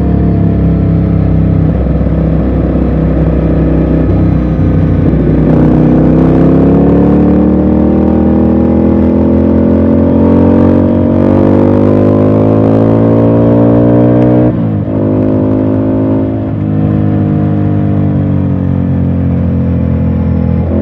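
Ducati Scrambler's air-cooled L-twin engine heard from the rider's seat while riding. It runs steadily, then its pitch climbs for about nine seconds under throttle, drops sharply about fourteen seconds in, and settles. Wind noise on the microphone is mixed in while it pulls.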